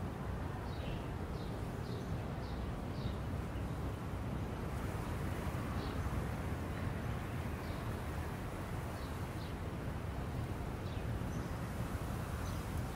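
Outdoor park ambience: a steady low rumble with small birds chirping briefly now and then, about a dozen short chirps.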